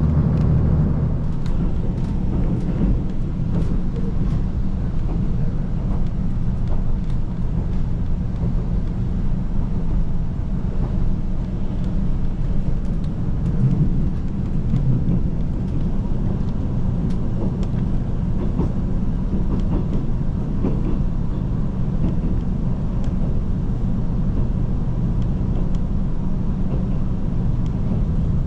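KiHa 185 series diesel railcar running at speed, heard from inside the car: a steady low rumble of engine and wheels on the rails with scattered light clicks. The engine's steady low hum drops away about a second in.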